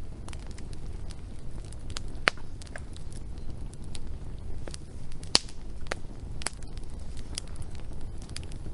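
Wood fire crackling, with scattered sharp pops over a steady low rumble of the flames; the loudest pops come a little after two seconds and about five seconds in.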